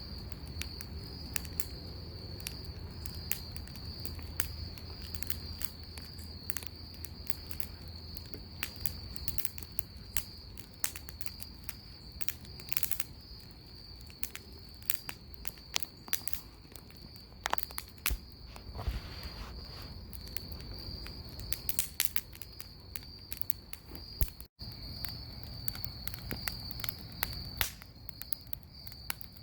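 Bonfire crackling, with sharp pops at irregular intervals, over the steady high trill of crickets. The sound cuts out for an instant about two thirds of the way through.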